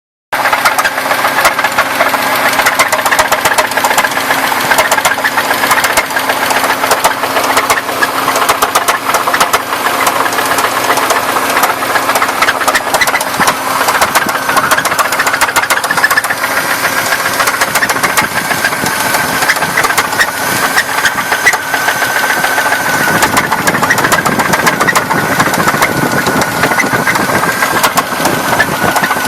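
1994 Buick Park Avenue's 3800 V6 running with a loud, rapid knock that keeps time with the engine, which the owner says sounds like a rod: typical of a worn connecting-rod bearing.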